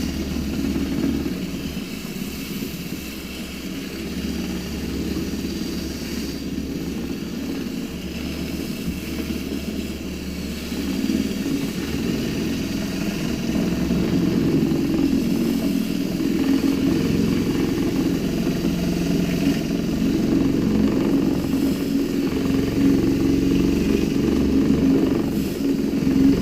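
Paint roller spinning at high speed in a Storch Tornado water-driven roller washer, whirring steadily under the water jet with spraying water. It gets louder partway through.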